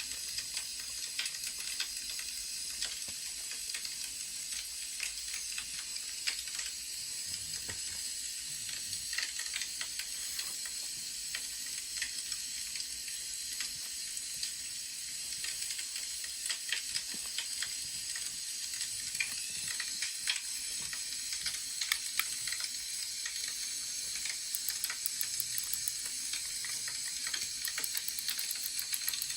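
Wood fire crackling: a steady hiss with scattered sharp pops, and a quicker run of ticks near the end.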